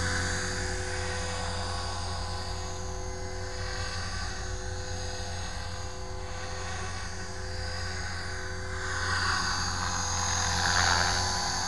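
450-size electric RC helicopter in flight: a steady whine of motor and rotor blades, swelling louder for a few seconds near the end.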